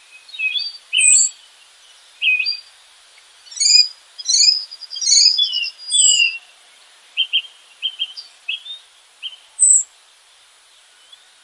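Songbirds singing and calling: a string of short chirps, whistled slurs and a brief trill with pauses between phrases, over a faint steady hiss.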